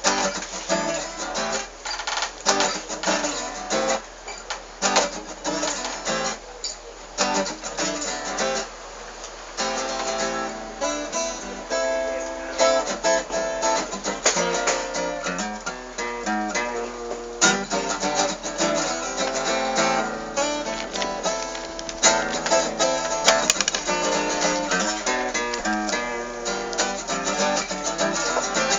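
Acoustic guitar strummed and picked, without singing: the instrumental opening of a folk song.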